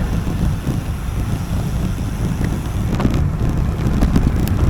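Wind buffeting the camera microphone on a fast road-bike descent: a loud, low, steady rumble. A few sharp clicks come in over the last couple of seconds.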